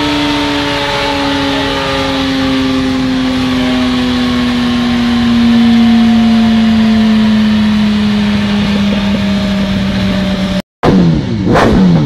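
Motorcycle engine running at high revs on a dynamometer, its note slowly and steadily falling in pitch. Near the end the sound cuts out for a split second, then a quick drop and rise in pitch with a sharp crack.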